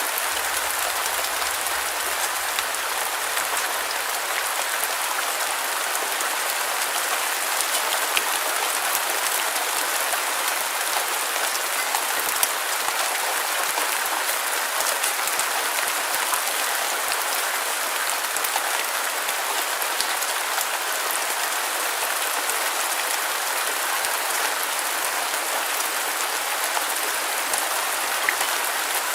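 Steady rain falling, an even hiss of many fine drops with scattered small droplet ticks.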